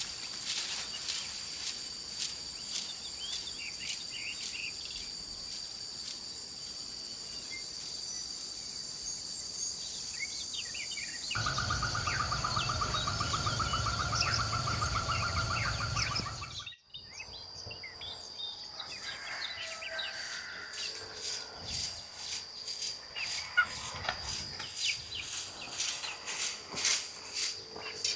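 Countryside outdoor ambience: a steady high-pitched hum with bird chirps and scattered light ticks. Partway through comes a louder stretch of about five seconds with a fast buzzing trill over a low rumble, which cuts off abruptly.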